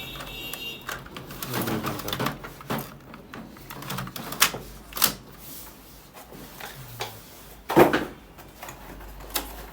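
Toner cartridges being handled and pushed into a Konica Minolta bizhub colour copier: a string of plastic clicks and knocks, with two sharp clicks around the middle and a louder thump near the end.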